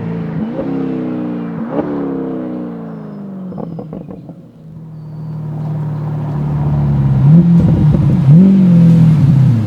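Chevrolet Corvette C8's 6.2-litre V8 through an MBRP 3-inch stainless active cat-back exhaust. The engine note falls away with two quick throttle blips in the first two seconds, settles low, then builds again and revs up and back down twice, loudest near the end.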